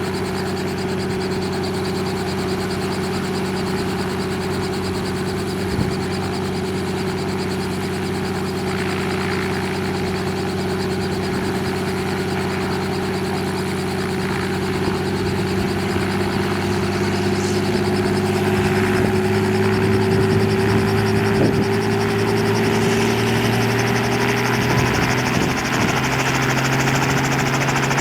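Helicopter running with a steady engine drone. From about two-thirds of the way in it rises in pitch and gets a little louder.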